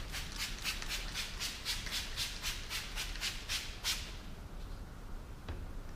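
Quick back-and-forth rubbing strokes, about four a second, of a cloth scrubbing cleaner over a plastic engine cover. The strokes stop about four seconds in, and a faint click follows.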